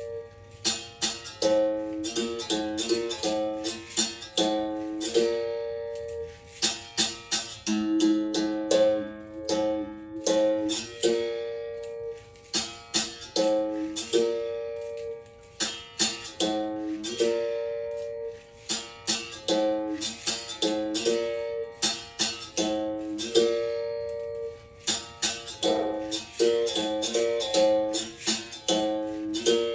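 Berimbau played solo: its steel wire is struck in quick rhythmic clusters that switch between two or three pitches, each phrase ending on a note left to ring, the pattern repeating about every three seconds.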